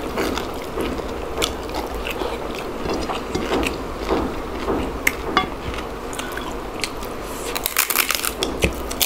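Close-miked eating sounds: chewing and crunching of food, with a dense run of small crisp clicks that grows thickest about eight seconds in.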